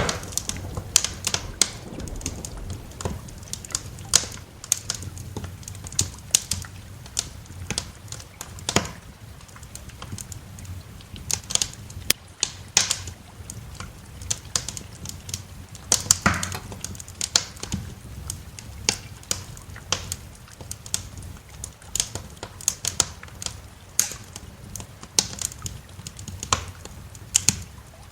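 Wood fire crackling, with irregular sharp pops and snaps, some close together and some a second or two apart, over a low steady rumble.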